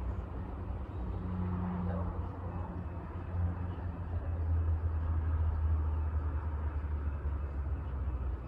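Freight train rolling past with a steady low rumble that grows louder about four seconds in.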